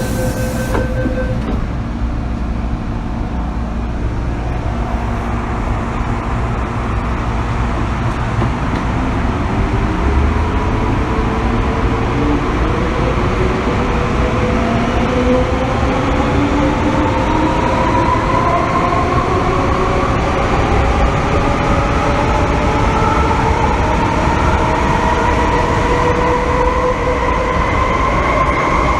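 MTR M-Train electric multiple unit heard from inside the carriage: a steady low running rumble, then from about eight seconds in a set of whining traction-motor tones that rise steadily in pitch as the train picks up speed.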